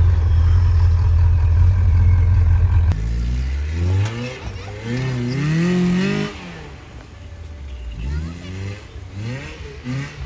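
A steady low engine rumble for about three seconds, then off-road trucks revving as they pass one after another in the snow, their engine pitch rising and falling.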